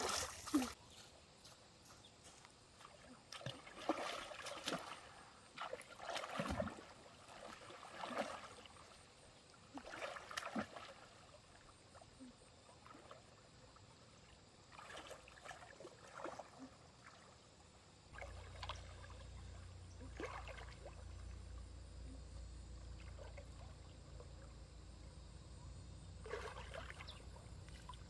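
Shallow stream water splashing and sloshing in short, irregular bursts over a faint trickle. A low steady rumble comes in about two-thirds of the way through.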